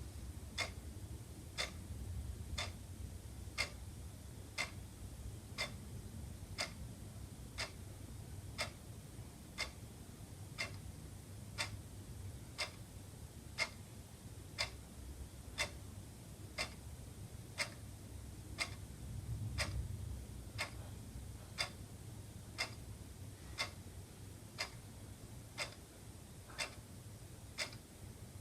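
Wall clock ticking steadily, about one sharp tick a second, over a faint low background rumble.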